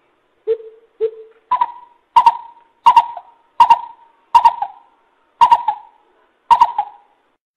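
A coucal (bubut) calling a series of hollow hooting notes. The first two notes are lower, followed by about eight higher notes at an even pace.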